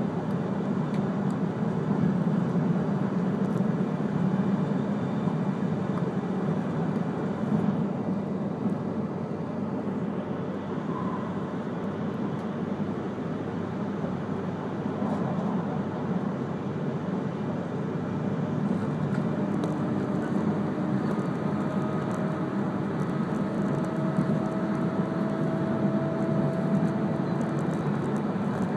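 Steady running noise of an E3 series Komachi train, heard from inside the passenger cabin, with its weight in the low range. In the second half a faint whine rises slowly in pitch.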